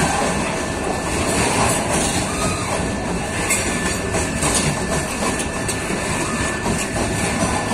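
Freight train wagons rolling past, with a steady, continuous rumble and clatter of wheels on the rails and a faint, steady high whine.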